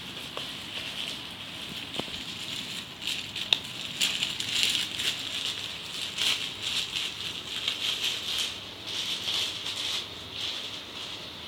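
Slime being squeezed and stretched by hand, giving a continuous run of small crackling, popping clicks that gets busier about four seconds in.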